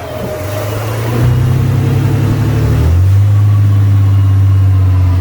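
A big truck's engine running under load, its note shifting about a second in and again around three seconds, and growing louder after the first change.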